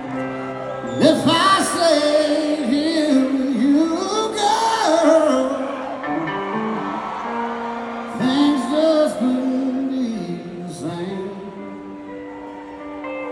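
Live band concert heard from the audience: a lead vocal sings long, drawn-out, bending lines over steady sustained guitar chords. It comes in about a second in and trails off near the end.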